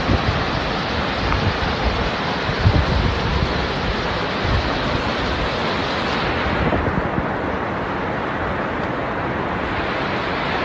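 Floodwater rushing in a steady loud torrent, with wind buffeting the microphone in the first few seconds.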